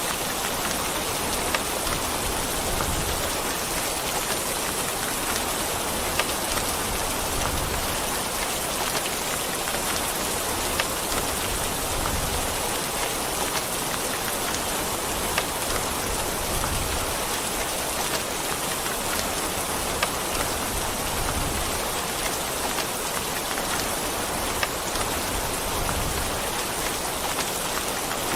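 Steady heavy rain falling, a dense even hiss with scattered sharp drips and taps of drops striking a surface.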